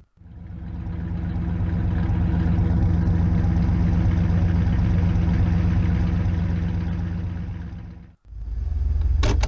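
1966 Oldsmobile 442's 400 cubic inch tri-carb V8 idling steadily, heard through its dual exhaust. The sound breaks off briefly about eight seconds in, and a short sharp noise comes near the end.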